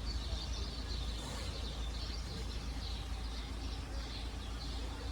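Many small birds chirping and twittering at once in a continuous chorus, over a steady low rumble.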